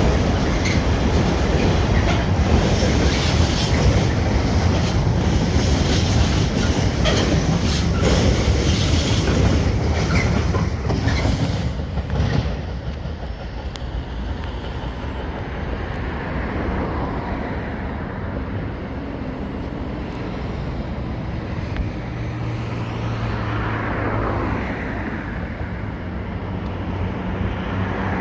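Train running along the tracks past the station, its wheels clattering over rail joints, until the loud passing noise drops away about twelve seconds in. A quieter steady rumble with a low hum follows.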